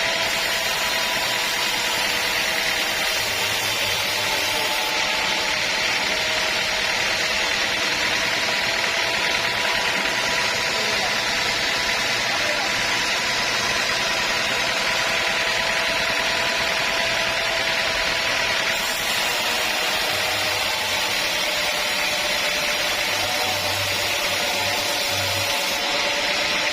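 Sawmill machinery running steadily: a constant machine whine over a wide noise, its pitch sagging slightly near the end.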